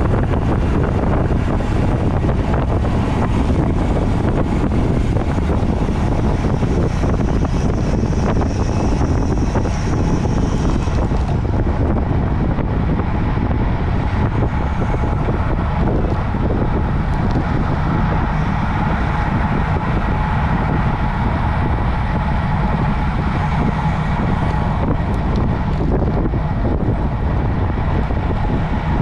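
Steady rushing wind on the microphone of a camera carried on a moving road bike, with a heavy low rumble that never lets up.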